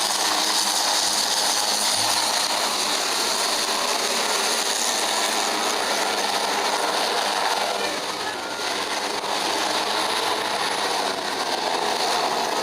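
Aircraft noise at an airshow: a loud, steady rushing roar that eases a little about eight seconds in.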